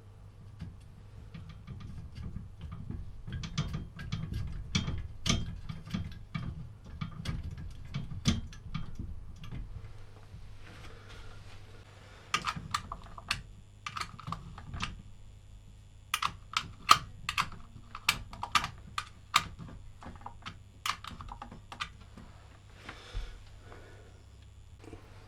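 A run of light clicks and taps from tools and small metal parts being handled, over a steady low hum. The clicks are dense and irregular at first, then form a more even string of sharper clicks about two a second past the middle.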